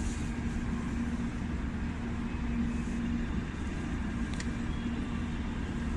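Steady low rumble and hum of a Shinkansen station platform, the hum fading in and out, with a faint tick about four seconds in.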